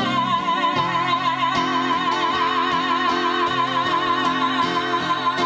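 Live folk-Americana band music: one long note held with vibrato over steady acoustic accompaniment.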